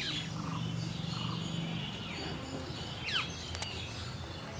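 Several small birds chirping, with short high calls, some sweeping quickly downward in pitch, the sharpest about three seconds in. A steady low hum runs underneath, strongest in the first couple of seconds.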